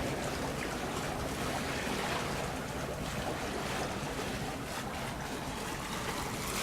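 Steady rush of water along the hull of a sailing cutter under way under sail, with wind.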